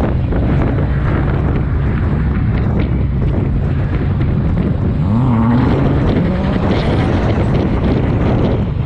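Supercharged V8 engine of a Toyota Soarer drift car running, its revs rising about five seconds in and holding higher, with heavy wind buffeting on the microphone.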